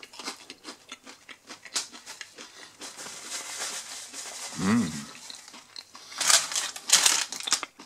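Someone chewing a crispy breaded cheese-and-salami bite, with a short hummed "mmm" a little before five seconds in. Paper napkins crinkle loudly near the end.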